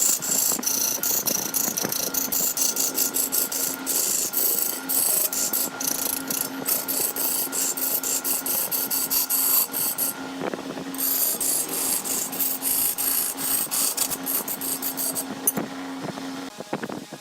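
Woodworking machine running with a steady motor hum while a cutting tool scrapes rapidly and roughly against wood. The scraping breaks off for about a second partway through, and everything stops shortly before the end.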